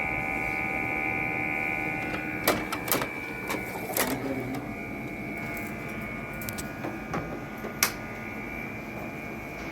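Split air conditioner's indoor fan motor running with a steady, high multi-tone whine, the excess noise of a faulty motor that needs replacing. A few sharp clicks or knocks cut in.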